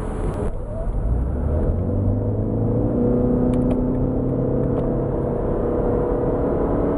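2014 Lexus CT 200h hybrid's 1.8-litre four-cylinder petrol engine under hard acceleration, heard from inside the cabin. The engine note builds about a second in and then holds at a steady pitch, because the CVT keeps the revs constant instead of shifting gears.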